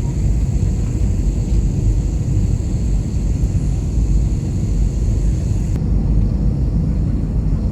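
Airbus A320 cabin noise on approach: a steady low rumble of engines and airflow heard from a window seat, with a faint high hiss that stops suddenly about six seconds in.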